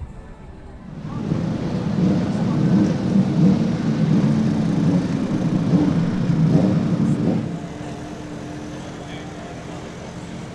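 Racing motorcycle engines running at high revs. The sound swells up about a second in, stays loud for about six seconds, then drops back to a quieter steady hum.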